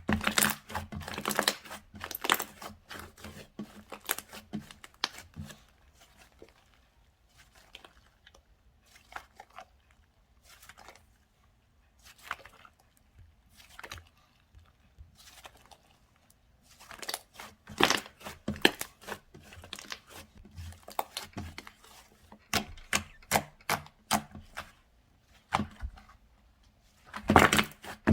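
Slime being squeezed, poked and stretched by hand, giving bursts of sharp clicks, pops and crackles with quieter, sparser stretches in between.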